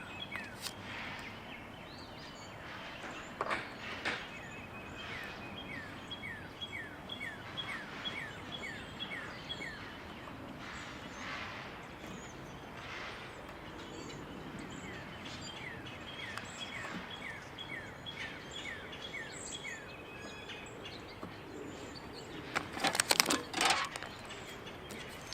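A songbird repeats a quick series of short, high, falling chirps in two long runs over steady outdoor background noise. A few brief knocks or rustles are heard, the loudest cluster near the end.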